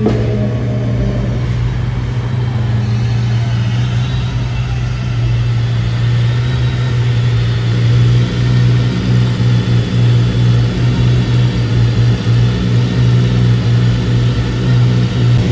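Car engine idling steadily, with its revs just dropping back at the start. From about halfway through the sound turns choppier.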